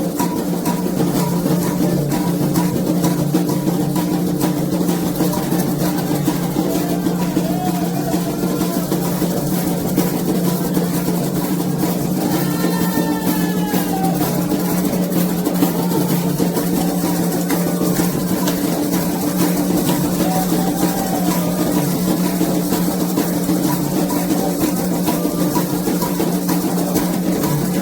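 Candomblé ceremonial drumming: atabaque hand drums and percussion playing a steady, dense rhythm.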